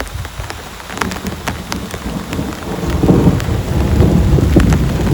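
Heavy rain with single drops striking close by, and a low rumble of thunder that swells about three seconds in and keeps rolling.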